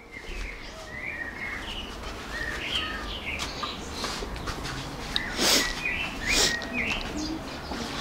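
Small birds chirping in short, scattered calls, with two louder, sharper chirps a little past halfway.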